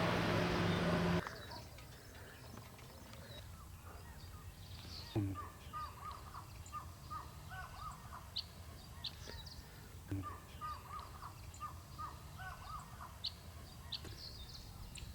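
A loud noise with a steady low hum cuts off abruptly about a second in. Then birds call in the open: two runs of short, repeated caw-like notes with scattered high chirps, and two soft knocks.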